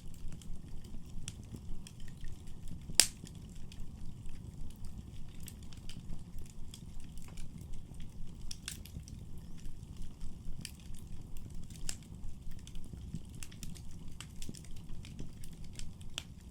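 Wood fire burning in a fireplace: a steady low rumble of flames with frequent crackles and pops, one sharp loud pop about three seconds in.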